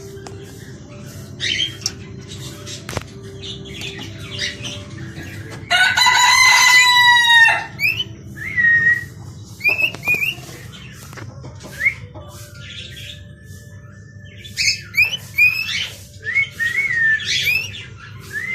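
A rooster crows once, a long call about six seconds in, among repeated short, high chirps from small birds.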